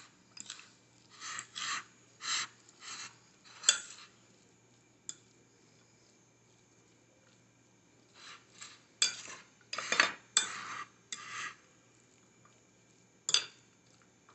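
A spoon stirring a chunky sardine-and-vegetable filling in a bowl, scraping against the bowl in quick strokes with a few sharp clinks. The strokes come in two runs, during the first four seconds and again from about eight seconds in, then once more near the end.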